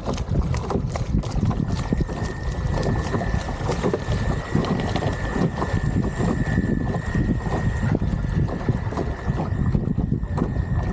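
Wind buffeting the microphone in loud, gusty low rumbles, with a thin steady high whine joining at about a second and a half in.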